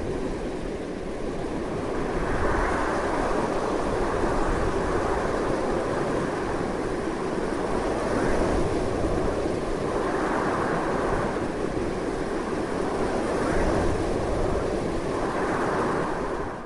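Strong, continuous wind: a steady rushing noise that swells in gusts every couple of seconds.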